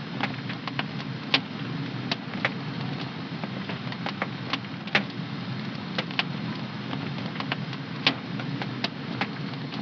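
Wood fire in a home fireplace crackling: irregular sharp pops and snaps, a few louder ones, over a steady low rumble of burning.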